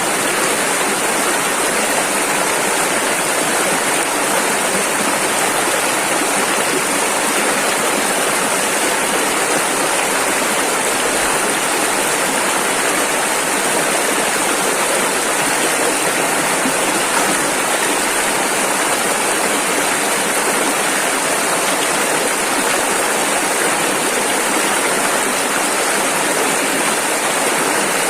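River water rushing steadily over rapids, a constant, even rush of noise with no breaks.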